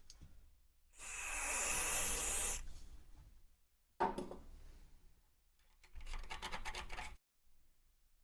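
Rubbing and scraping noises in separate bursts, with a sharp knock about four seconds in.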